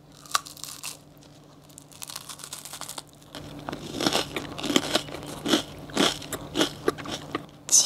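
A bite into a crisp puffed-rice oranda dessert topped with dark chocolate, then crunchy chewing, close-miked. A snap comes right at the start, and the crunches grow louder and closer together in the second half.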